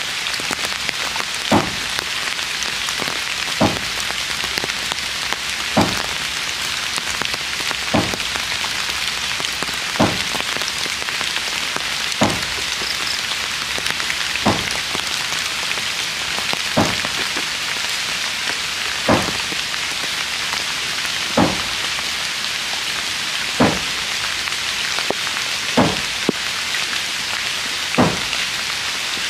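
Steady rain hiss on the roof and ground. A short tap sounds over it at an even beat of about one every two seconds.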